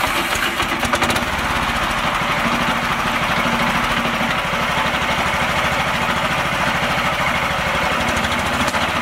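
Small mini-tractor engine running steadily with a fast, even chugging of firing pulses. It cuts in abruptly at the start.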